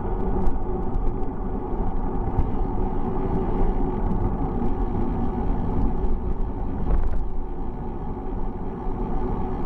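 Steady wind and road rumble picked up by a camera riding along on a bicycle, with a few brief clicks.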